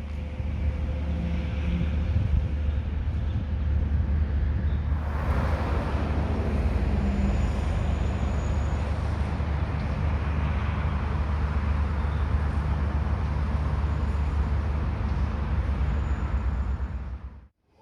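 Steady low rumble and road noise of a moving vehicle, cutting off abruptly near the end.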